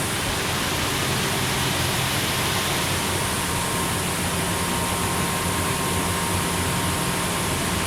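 Combine harvester running steadily while unloading soybeans into a truck through its unloading auger: an even mechanical rush with a constant low hum and a faint steady high tone.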